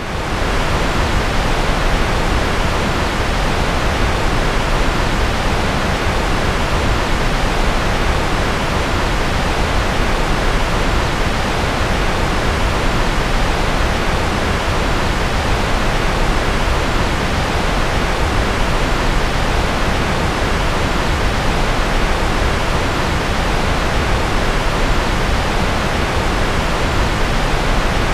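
Steady, unchanging generated white noise: a continuous even hiss, fuller in the low and middle range and softer in the highs.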